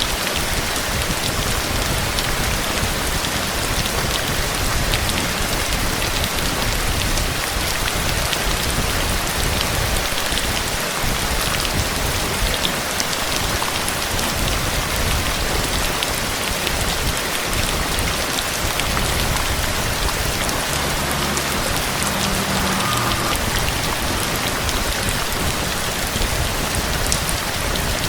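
Steady, heavy rain falling, with individual close drop hits ticking through the even hiss.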